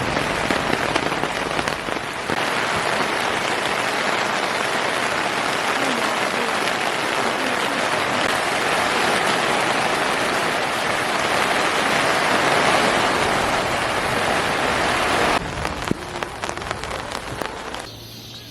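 Heavy rain pouring down in a dense, steady hiss that stops abruptly near the end.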